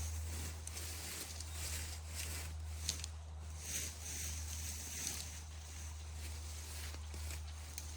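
Irregular rustling and crackling, with short crisp noises coming at uneven intervals, over a steady low hum.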